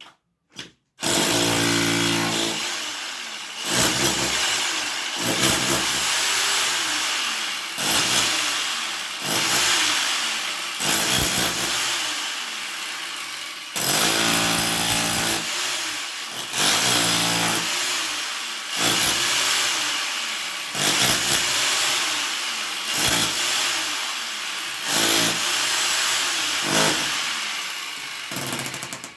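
Power tool cutting a track for a half-inch water line. It starts about a second in, and its motor speed rises and falls again and again as the cut loads it.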